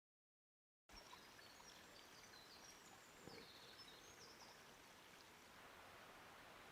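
Faint forest ambience that starts about a second in: a steady soft rush of flowing water, with a few short high chirps in the first few seconds and a small knock in the middle.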